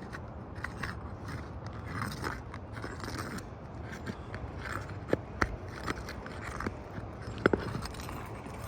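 Tools scraping and prying under asphalt roof shingles, with irregular scrapes and a few sharp clicks and snaps as the shingle is worked loose from its seal and nails.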